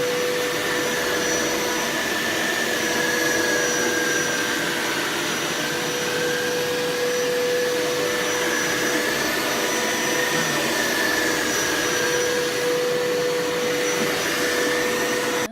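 Hoover Power Scrub Elite carpet cleaner running steadily on a rinse pass, its motor giving a whine with a steady low tone and a higher tone that wavers slightly. It cuts off abruptly at the end.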